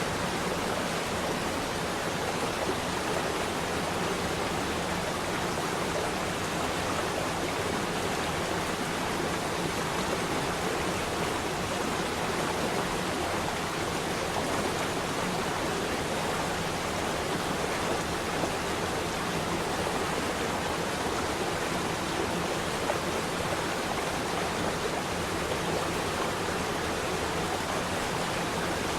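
Flowing water, a stream or small waterfall, rushing in a steady, unbroken hiss.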